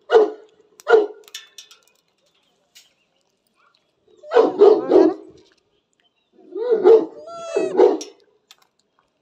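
A dog barking in short single barks, then a quick run of three barks, then more barks mixed with a drawn-out whine, as it begs for food.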